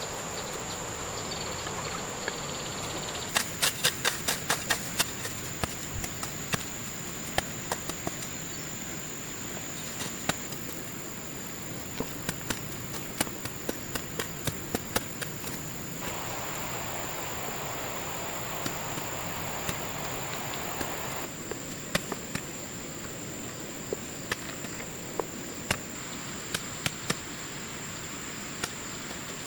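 Steady high-pitched drone of insects such as crickets, with many sharp knocks and clicks on top, in a quick cluster a few seconds in and scattered through the rest.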